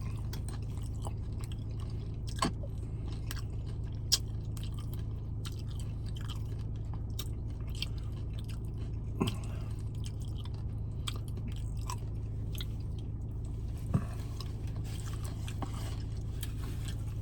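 Close-miked chewing of tortilla-chip nachos: crunching and mouth clicks, with a few short murmured hums, over a steady low background hum.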